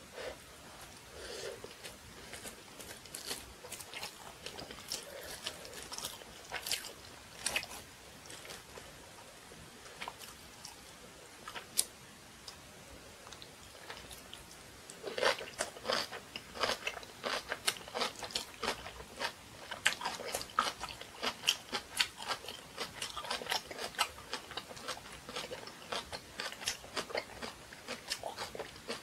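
Close-miked eating: soft, scattered mouth sounds while chewing rice, then from about fifteen seconds in, dense crisp crunching of a large piece of napa cabbage kimchi being bitten and chewed.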